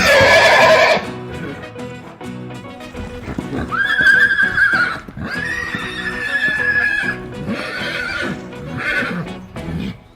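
Horse neighing: a loud whinny right at the start, then a run of shorter high whinnies later on. Background music plays underneath.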